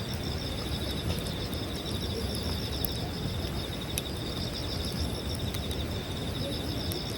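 Wood campfire crackling, with a few sharp pops scattered through, over a steady low rumble. Insects trill steadily at a high pitch throughout.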